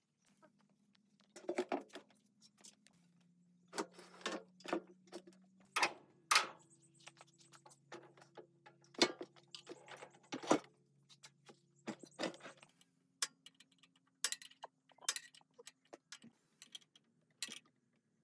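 Scattered sharp metallic clicks and clinks of small metal parts and tools being handled, some in quick clusters, over a faint low hum.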